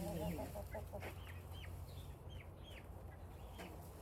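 Chickens vocalising: a short wavering cluck at the start, then a run of short, high, down-bending peeps repeating a few times a second, fairly faint.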